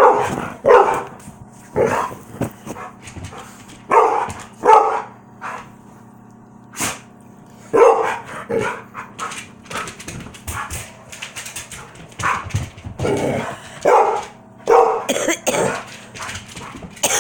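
Dogs barking while playing: short barks, often two in quick succession, repeated at irregular intervals, with quieter stretches in between.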